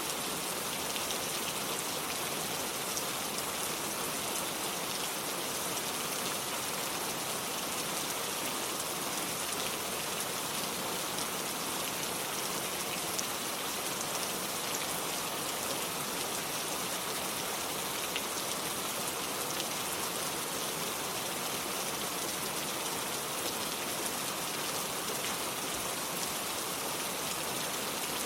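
Steady rain falling, an even hiss of many drops with faint scattered patters of drops hitting surfaces.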